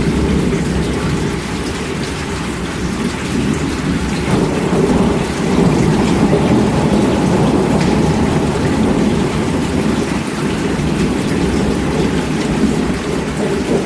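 Heavy rain falling steadily with a deep rumble of thunder beneath it; the rumble swells about four seconds in and stays heavy.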